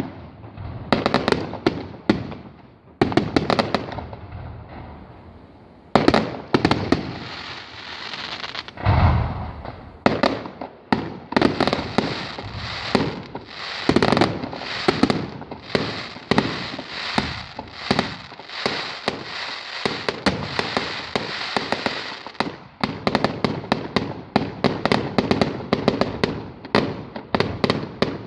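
Fireworks display: aerial shells bursting in quick succession with crackling between bangs, a deep boom about nine seconds in, then a dense rapid barrage of bangs.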